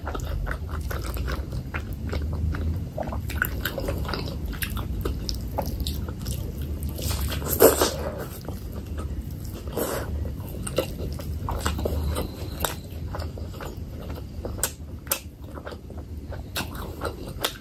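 Close-miked chewing of fatty pork belly and curried rice, with many short, wet mouth smacks and squelches. The loudest smack comes about eight seconds in, as a piece of pork goes into the mouth.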